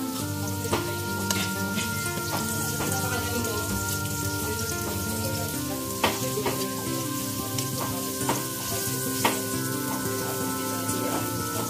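Flour-breaded chicken breasts frying in hot olive oil in a non-stick pan: a steady sizzle with a few sharp pops.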